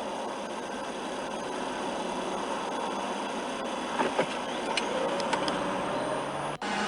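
Steady car engine and road noise, with a few light clicks in the middle. The sound breaks off abruptly near the end.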